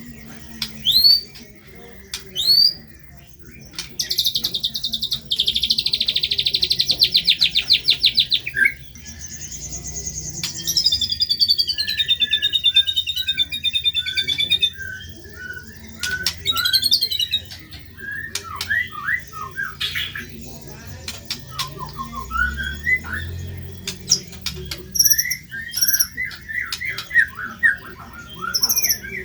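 White-rumped shama (murai batu) singing a varied, fast-changing song: a rapid trill, a falling warbled phrase, then a run of short whistled glides and chirps.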